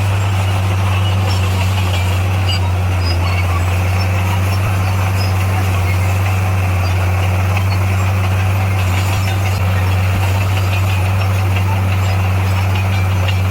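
Bulldozer's diesel engine running steadily at an even, unchanging pitch.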